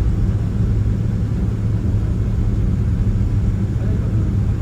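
Cabin noise of a Boeing 767-300ER airliner taxiing after landing: a steady low rumble.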